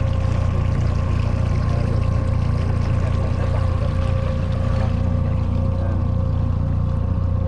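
Boat engine running at a steady speed, a constant low drone with a steady whine, over the rush of water.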